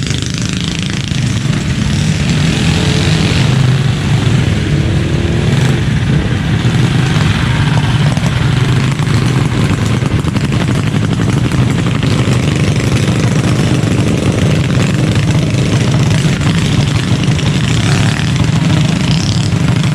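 Mini bike engine running steadily at speed, with a wavering drone that holds for the whole stretch.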